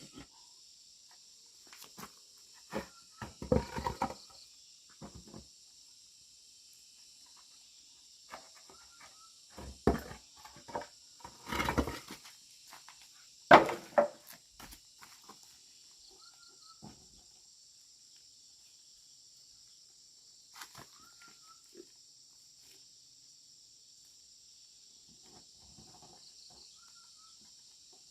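Steady high-pitched chorus of insects such as crickets or cicadas, over scattered knocks, clicks and rustles of handling. The loudest is one sharp knock about halfway through.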